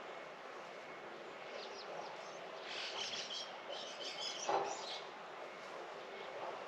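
Birds chirping in a rapid cluster of short high notes over a steady outdoor hiss, with one brief louder noise about four and a half seconds in.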